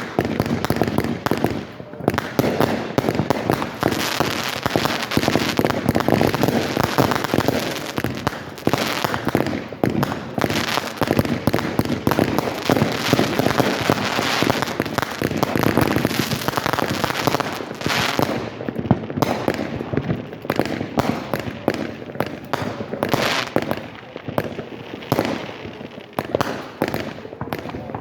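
Fireworks going off in a dense, continuous barrage of overlapping bangs and crackling.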